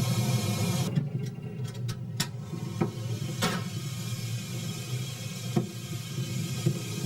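Steady low rumble of a moving vehicle, with a few sharp clicks or knocks over it, most of them in the first half.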